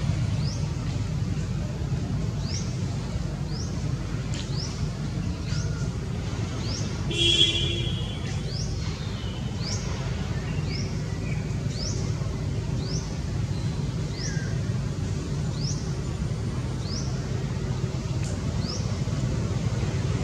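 Outdoor ambience: a bird giving short, sharply rising chirps about once a second over a steady low rumble. About seven seconds in comes one brief, louder pitched call.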